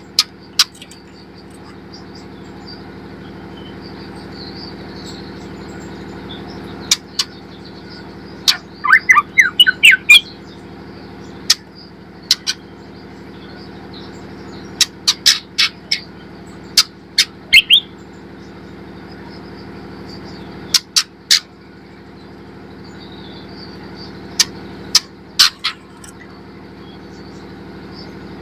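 White-rumped shama giving sharp, very short chip calls in scattered clusters, with a quick warbled phrase about nine seconds in and a short rising note near the end of the second third. A steady low hum runs underneath.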